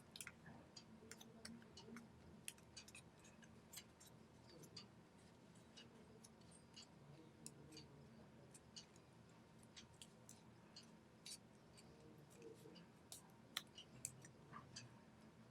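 Faint, irregular crackles and clicks of paper being creased and handled during origami folding, over a low steady hum.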